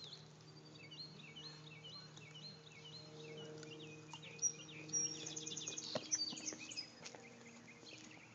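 Songbirds chirping: a run of short repeated chirps, about two a second, then a quick high trill about five seconds in, over a steady low hum, with a few sharp clicks near the middle.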